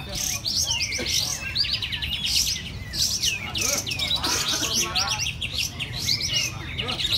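Many songbirds chirping and singing over one another in fast overlapping trills and whistles, as at a bird-singing contest, with kapas tembak bulbuls among them.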